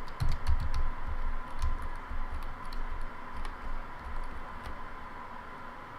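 Keys of a Logitech K360 keyboard being pressed one at a time, giving irregular clicks with soft low thumps, as each key is tested for sticking or shorting. A faint steady tone sits underneath.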